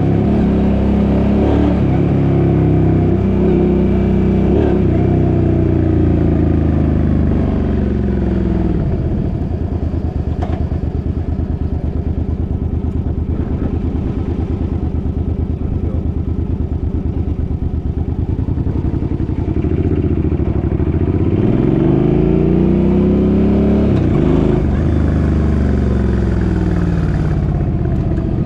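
Suzuki's engine running under way: it revs up and down through the first several seconds, settles to a steady low-speed run with even firing pulses through the middle, then picks up and eases off again near the end.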